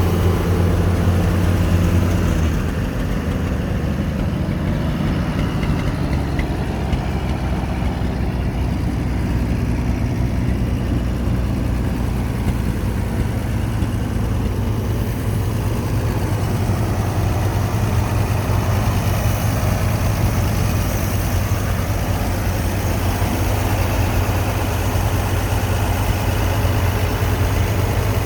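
1953 Chevrolet fire truck's straight-six engine running after 30 years laid up, a little faster for the first couple of seconds, then settling into a steady idle.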